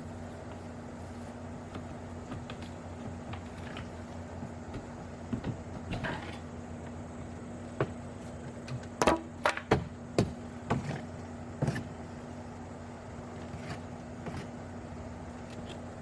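Scattered knocks and clunks from hand work on an old window being taken out, clustered about nine to eleven seconds in, over a steady hum.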